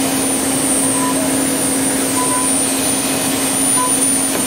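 CNC wood lathe running its finishing pass with a 6 mm ball-nose cutter: a loud, steady whirring noise with a constant low hum and a thin high whine.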